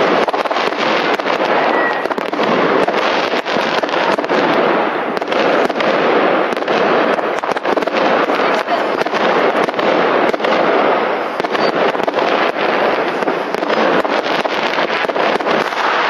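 Barrage of many fireworks and firecrackers going off at once: dense, overlapping crackling with frequent sharp bangs and no pause.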